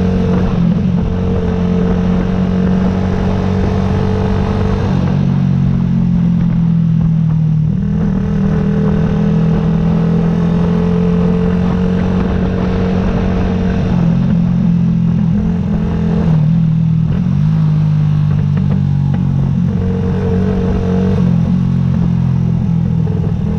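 2009 Yamaha YZF-R125's single-cylinder four-stroke engine running under way. Its pitch steps down and back up several times as the revs change.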